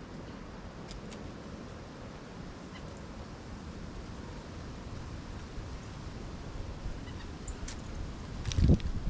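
A few short bird calls over a steady low rumble, with a heavy low thump near the end.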